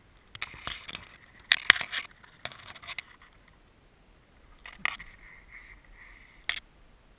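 Rustling and scraping of gear being handled, with several sharp clicks and knocks.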